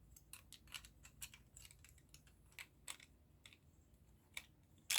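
Small plastic model-kit parts clicking and tapping together as they are handled and fitted: a run of faint, irregular clicks, with a sharper one near the end.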